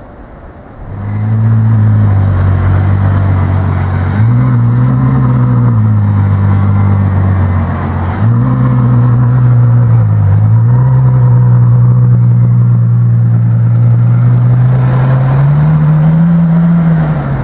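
Ferrari FF's V12 engine driving off at low speed, a deep steady exhaust note that rises and falls in pitch several times as the throttle is opened and eased.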